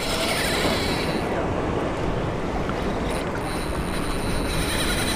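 Steady rush of wind and water noise around a small boat on open water, with no distinct knocks or splashes standing out.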